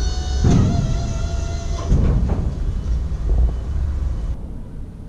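Low steady rumble with a thin steady hum over it, and two knocks, about half a second and two seconds in. It fades away and the upper part cuts off suddenly near the end.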